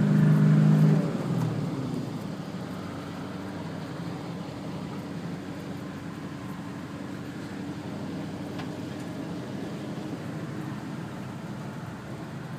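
V8 Land Cruiser engine running under tow load, loudest for the first second or so, then easing to a steady lower drone.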